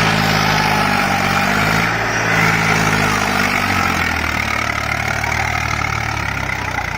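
Eicher tractor's diesel engine running steadily, its pitch dropping slightly about halfway through as it slows.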